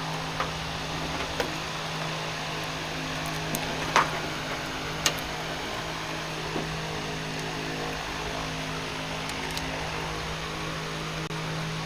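Wire strippers and hand tools working on a wiring harness: a few sharp clicks and snaps, the loudest about four seconds in, over a steady hum and hiss.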